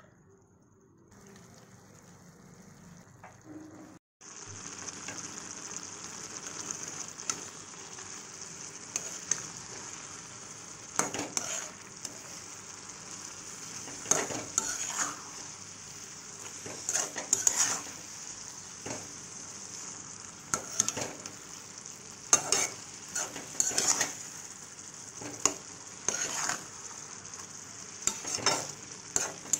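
Mushrooms frying in oil in a metal kadai, a steady sizzle that comes up fully about four seconds in. A flat metal spatula scrapes and knocks against the pan every second or two as they are stirred.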